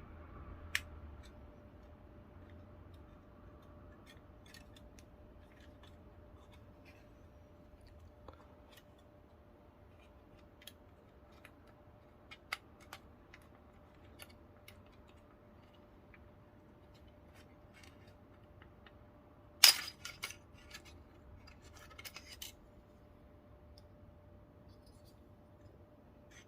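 Scattered small clicks and taps of plastic model-train parts being handled and prised apart, with a sharper snap and a short rattle of clicks about twenty seconds in.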